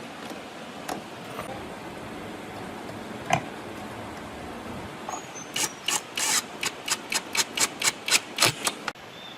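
A hand tool rasping on wood in a quick run of short back-and-forth strokes, about four a second, starting about halfway through and stopping shortly before the end, after a single click about a third of the way in.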